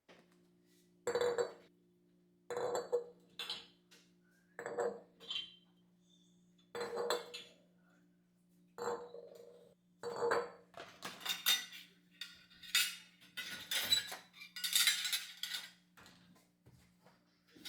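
Dishes and cutlery clinking as they are handled and set down, one clink about every two seconds at first, then a denser run of clattering in the second half. A steady low hum runs underneath.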